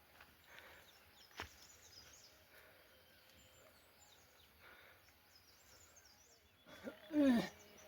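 Quiet rural background with faint bird chirps and a single click about a second and a half in. Near the end comes a short, loud cry that falls steeply in pitch.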